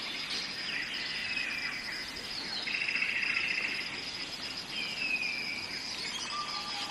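Rainforest ambience: a steady high insect drone with several birds calling over it, in descending whistles and a short rapid trill about three seconds in.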